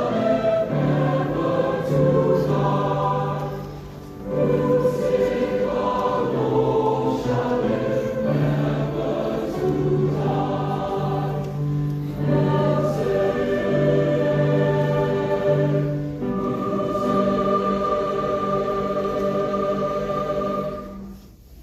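School choir singing in several parts in harmony. It closes on a long held final chord that cuts off near the end.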